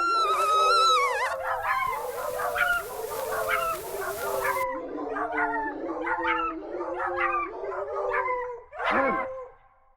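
A dog howling: one drawn-out howl, then a string of short, bending howls and yips, about two a second, with a steady hiss under the first few seconds. It fades and stops just before the end.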